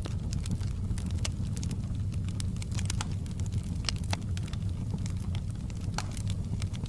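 Wood fire crackling: a steady low rumble of the flames with many quick, irregular pops and snaps, a louder pop about four seconds in.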